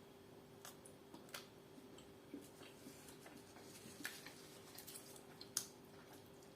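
Faint, scattered clicks and crinkles of a wrapped chocolate being handled and unwrapped, over a low steady room hum.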